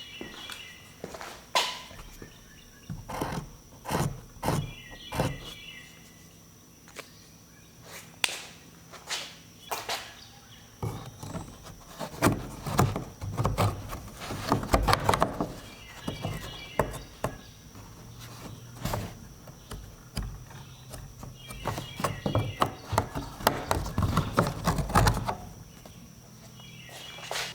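Irregular knocks, clanks and rattles of hand work on metal parts, in clusters, with a few short chirps in the background.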